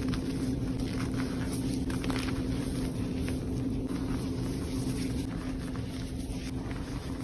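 A steady low hum underlying a few faint, short crunches of a reformed powder block being crumbled by hand.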